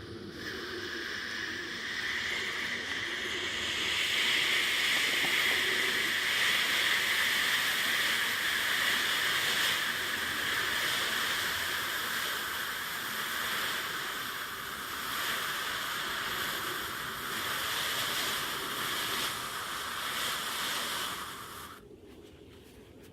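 A steady, loud hiss that builds over the first few seconds, holds, and then cuts off suddenly near the end.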